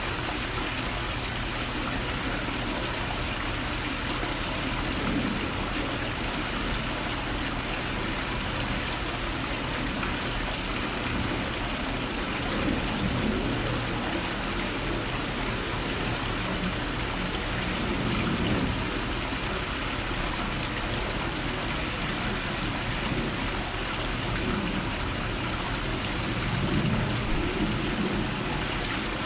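Steady, even rushing noise with no distinct events, swelling slightly in its low end a few times.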